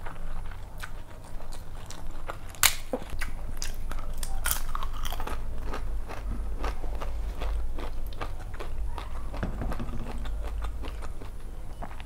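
Close-miked chewing and wet mouth clicks of a person eating rice and chicken curry by hand, with many short sharp clicks; the loudest comes about two and a half seconds in.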